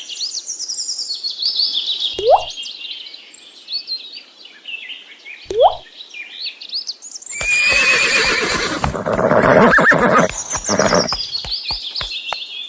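Birds chirping throughout, with a horse neighing loudly from about seven and a half seconds in until about eleven seconds in. Two short rising calls come about two and five and a half seconds in.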